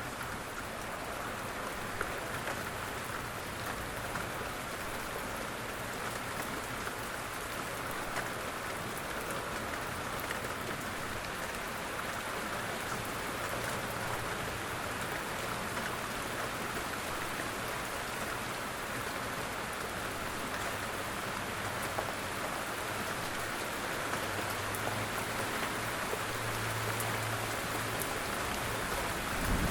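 Steady rain falling, an even hiss with scattered drop ticks, over a faint low hum.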